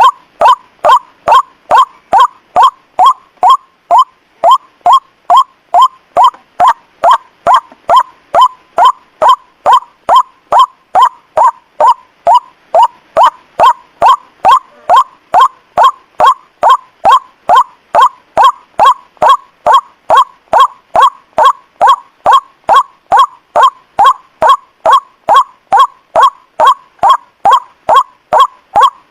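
White-breasted waterhen (ruak-ruak) call played as a bird-trapping lure recording: one loud, short note repeated evenly, about two and a half times a second.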